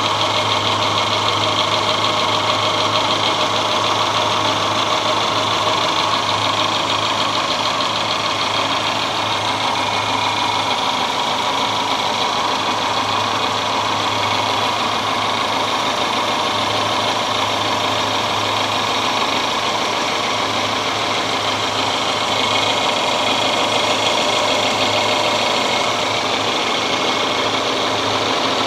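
A 1997 Subaru Impreza's EJ22 2.2-litre flat-four engine idling steadily, heard from beneath the car.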